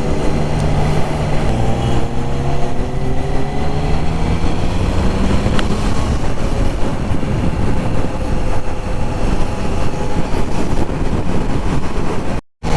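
Motorcycle riding at highway speed, the Triumph Trident 660's three-cylinder engine under heavy wind and road noise. The engine note drops about a second and a half in, then climbs steadily for several seconds as the bike accelerates. The sound cuts out briefly near the end.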